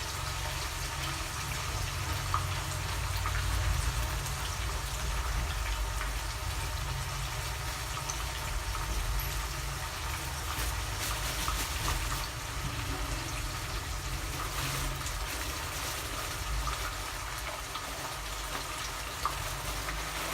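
One-sun-dried cobia frying in hot oil: a steady sizzle with scattered small crackles and pops.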